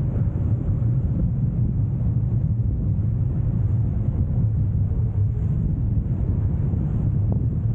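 Strong wind buffeting the microphone in a steady low rumble, from about 25 knots of apparent wind on a sailboat beating upwind.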